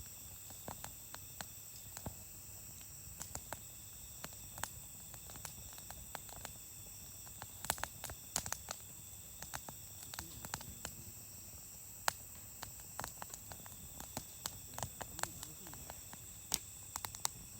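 Wood campfire crackling, with irregular sharp pops and snaps over a faint steady hiss.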